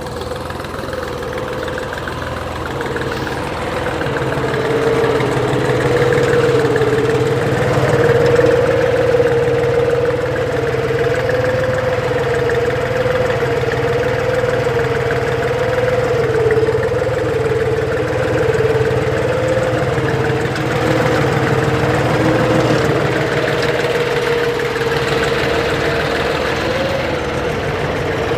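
Deutz-Fahr 45 HP tractor's diesel engine running steadily, with a slightly wavering pitch. It grows a little louder over the first several seconds.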